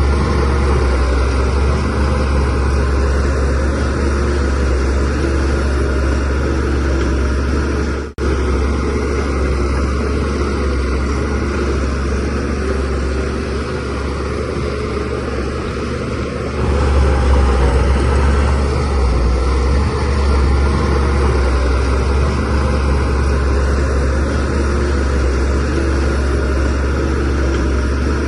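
Diesel engine of a DH17C3PRO bulldozer running steadily with a heavy low drone while it works. It cuts out for an instant about eight seconds in and grows louder a little past halfway.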